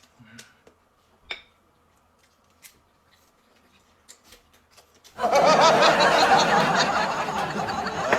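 A few faint clicks and taps, then about five seconds in a loud burst of laughter starts suddenly and carries on, like a comedy laugh track.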